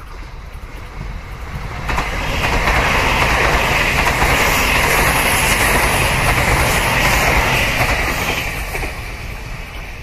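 An electric multiple-unit passenger train passing close by at speed: a steady rush of wheels on rail that builds as it approaches, holds loud for about six seconds while the cars go by, and fades near the end.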